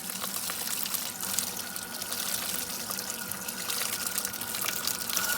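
Water running from a tap, rinsing a clump of moss in a sink, with small splashes and patters.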